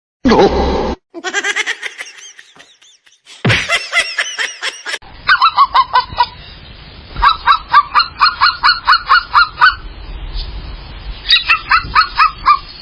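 Short clips cut together, then rapid honking bird calls, about five a second, in three runs from about five seconds in.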